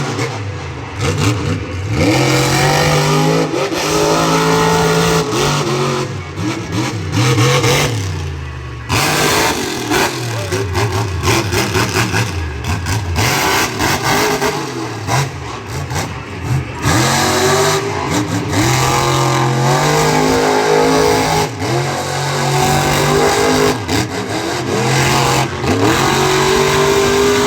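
Monster truck engine revving hard, its pitch climbing and dropping over and over, with sharp bangs here and there.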